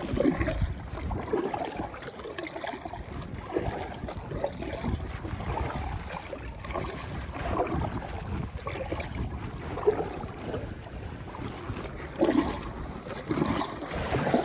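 Kayak on the water: water sloshing around the hull with scattered knocks, and wind rumbling on the microphone.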